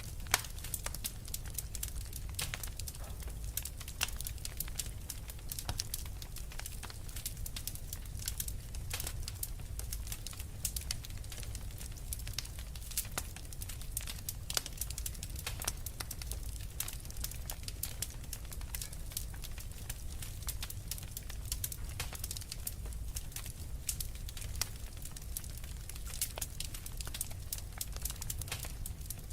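Wood fire crackling, with many sharp irregular pops over a steady low rumble of burning logs.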